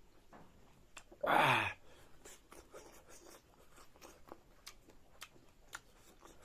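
Close-miked eating: faint chewing with small crunches and clicks, in a small room. About a second in comes one short, loud vocal sound that falls in pitch.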